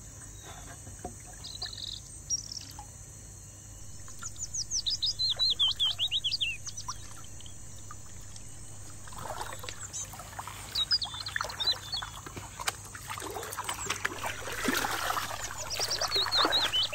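A songbird calls in quick, wavering runs of chirps, twice. Between the runs comes water splashing and trickling as the panner's hands work in the shallow river around a wooden gold pan. A steady high insect drone runs underneath.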